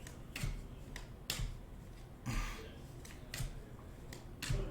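A series of sharp clicks, roughly one a second, with a short rustle of handled material about halfway through, typical of tabletop handling of cards and packaging.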